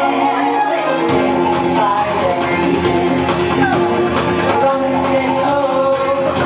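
Karaoke: a person singing over a pop backing track with a steady beat.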